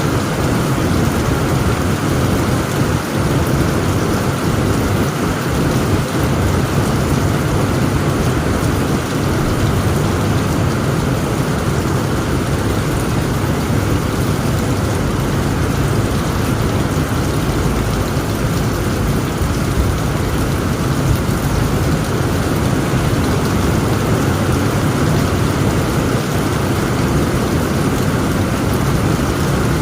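Heavy rain pelting steadily on a tent roof, with a continuous low rumble of thunder underneath.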